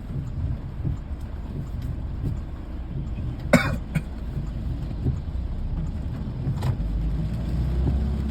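Steady low rumble of outdoor ambience, with a sharp knock about three and a half seconds in and a fainter one a few seconds later.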